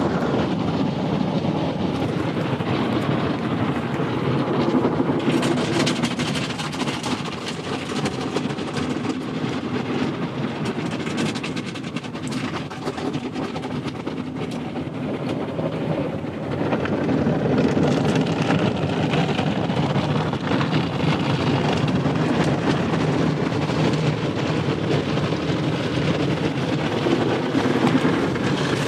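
Automatic drive-through car wash heard from inside the car: water spray and wash machinery working over the body in a steady loud rush, easing off a little about halfway through and swelling again.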